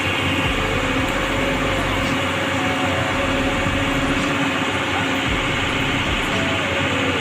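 A vehicle engine running steadily with a constant low hum over a rumbling noise.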